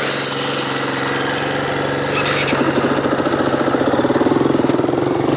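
Four-stroke dirt bike engine running steadily, then from about halfway a throbbing beat that grows a little louder as the bike picks up.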